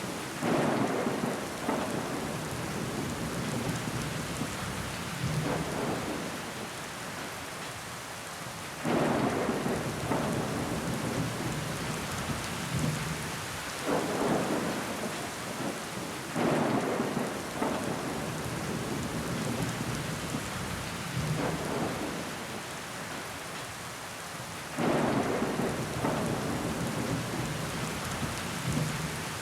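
Steady rain pattering against window glass, with water running down it. Several times a louder swell comes on suddenly and fades over a few seconds.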